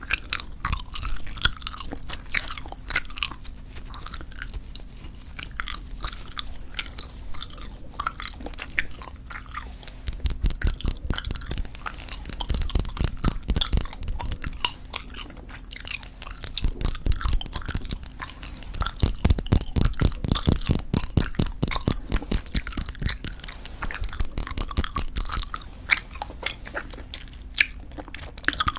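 Close-miked chewing of soft tube bubblegum: a dense run of wet, sticky clicks and smacks, quickening into faster, louder runs of chewing twice in the middle.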